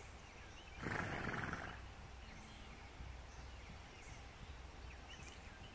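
Faint, scattered chirps of distant birds over a quiet outdoor background. A brief breathy rush of noise comes about a second in and is the loudest sound.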